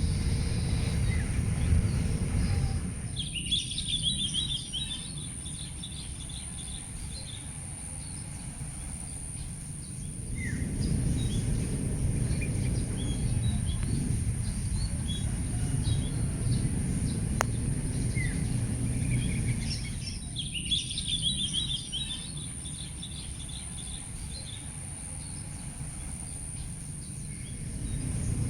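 Small birds chirping in two short flurries, about three seconds in and again about twenty seconds in, with a few single chirps between. Under them runs a steady low rumble of outdoor background noise, with a constant high-pitched hiss on top.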